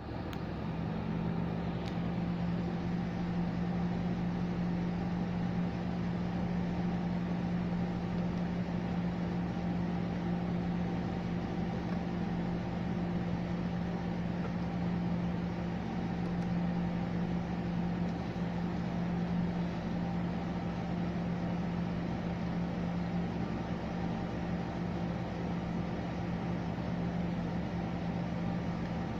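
MG ZT-T V6 190's 2.5-litre V6 engine idling steadily, heard from inside the cabin as an even low hum.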